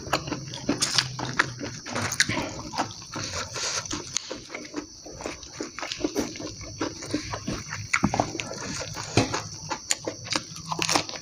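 Close-miked eating sounds: a person chewing a mouthful of rice, bean sprouts and raw vegetables with wet lip smacking and a steady run of irregular sharp clicks.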